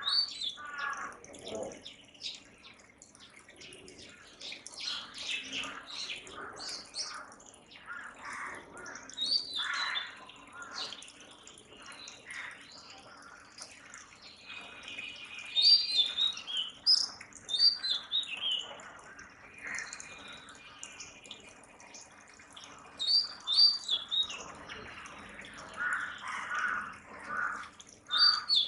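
Oriental magpie-robin singing: varied phrases of clear whistled and chirped notes, in bursts every few seconds with short pauses between them.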